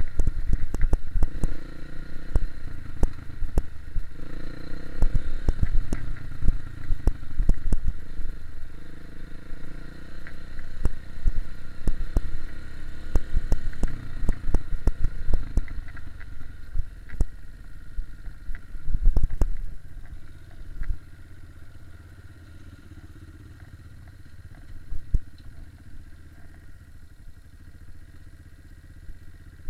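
Dirt bike engine running while the bike rides over rough off-road ground, with frequent clattering knocks from the bike over rocks and roots. It quietens in the last third, the engine dropping to a low run.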